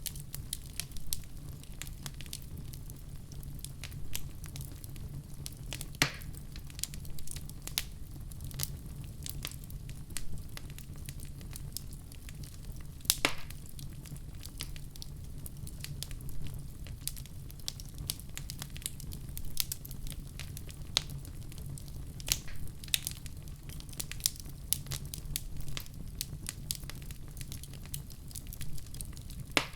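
Wood fire burning in a fireplace: a steady low rumble of flames with irregular crackles and occasional louder pops, the loudest about 6 and 13 seconds in.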